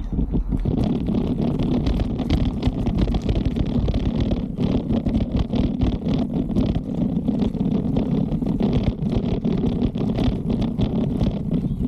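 Riding noise from a Trek mountain bike: a steady rumble of tyres on the trail and wind on the microphone, with many small clicks and rattles.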